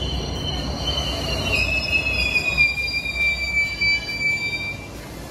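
JR West 221 series electric train pulling into a platform and braking, its wheels and brakes squealing in a high pitch that drifts slightly lower over a low running rumble. The rumble fades near the end as the train comes to a stop.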